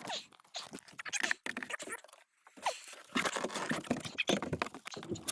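Irregular knocks, clicks and rustling of gear being handled and moved about in a hurry, with a brief lull about two seconds in.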